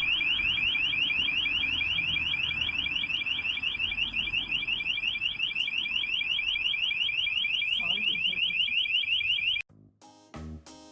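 An electronic alarm sounding as a fast, even train of rising chirps, about five a second, that cuts off abruptly near the end; a few notes of music follow.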